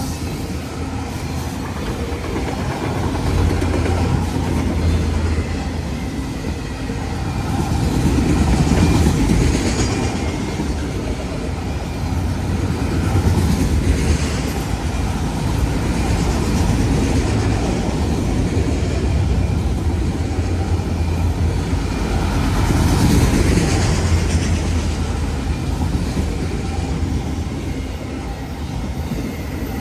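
Freight train cars rolling past, steel wheels clacking over the rail joints in a steady rumble that swells and eases several times.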